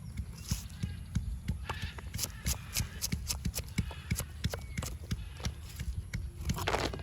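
A run of irregular sharp knocks, a few a second, over a low steady rumble, with a longer scraping or rustling sound near the end.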